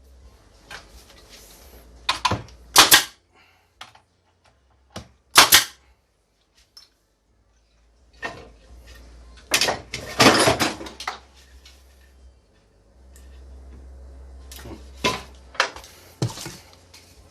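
Brad nailer firing brad nails into a wood strip: a series of sharp shots at irregular intervals, with a denser run about ten seconds in.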